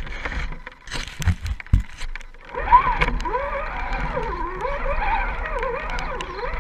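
RC rock crawler's electric motor and gears whining, the pitch rising and falling as the throttle is worked. A few knocks come before the whine starts, about two and a half seconds in.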